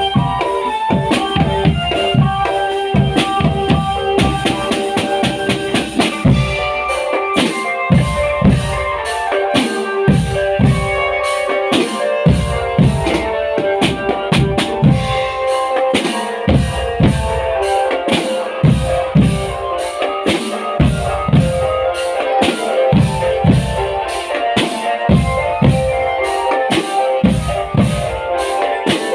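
Marching drum band playing: bass drums and snare drums beat a steady, driving rhythm under a melody on pitched band instruments.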